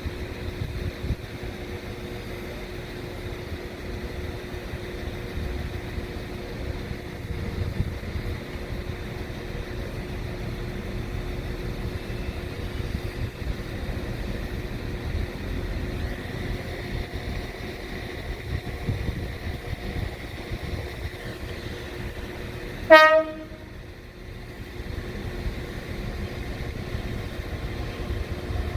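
A train rumbles steadily with a low hum. Near the end it gives one short, loud horn toot.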